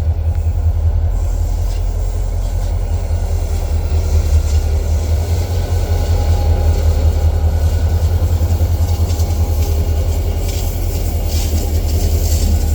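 A train's railroad cars rolling past close by: a steady heavy low rumble, with sharper wheel clicks on the rail joints near the end.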